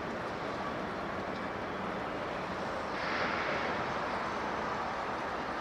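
Jet airliner engines running with a steady rush, growing brighter and a little louder about three seconds in.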